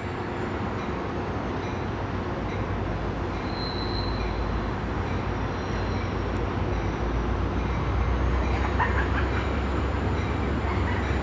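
F40PH-3C diesel-electric locomotive approaching at low speed with its commuter train. A steady rumble of engine and wheels grows gradually louder as it nears.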